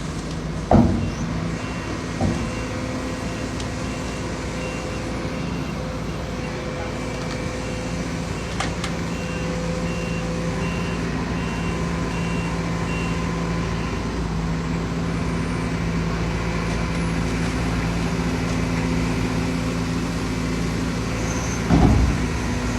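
Heavy diesel construction machinery running steadily, with a reversing or travel alarm beeping evenly for about the first half. A loud clunk comes just under a second in, a smaller one about two seconds in, and another loud clunk near the end.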